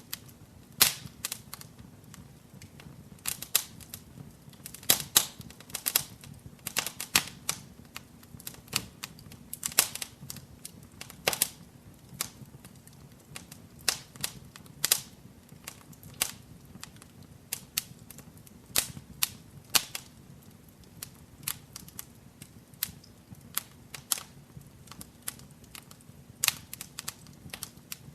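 Wood fire burning in a fireplace, with irregular sharp crackles and pops, several a second, over a faint low rush of flame.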